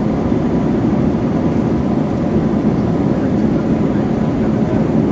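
Steady roar inside the cabin of an Airbus A321-231, from its IAE V2500 jet engines and the rush of air, as the airliner climbs out after takeoff.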